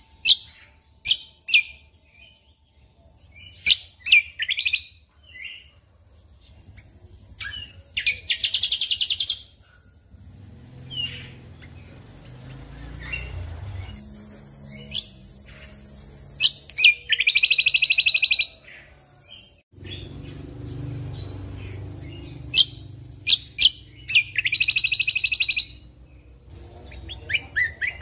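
Cucak kombo (kecial kombok) songbird singing: bursts of sharp chirps and short whistled notes, broken by three rapid buzzy trills, about eight seconds in, in the middle and near the end.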